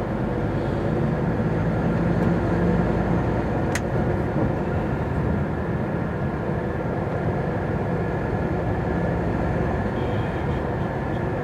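MAN TGX articulated lorry's diesel engine running under way with road noise, heard from inside the cab: a steady low drone. One short click about four seconds in.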